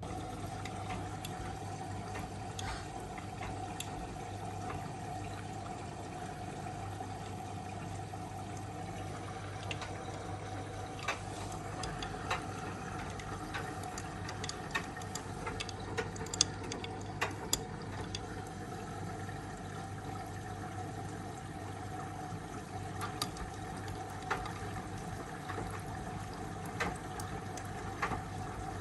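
Miele W1 washing machine running, a steady machine hum with water noise and scattered small clicks and ticks, the clicks more frequent in the second half.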